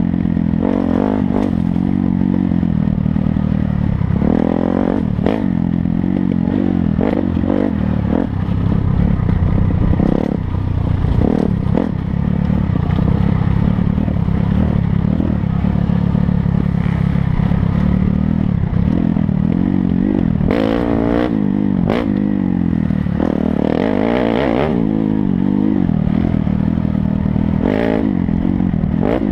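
Dirt bike engine running under way, its pitch rising and falling with the throttle, with frequent short knocks and rattles.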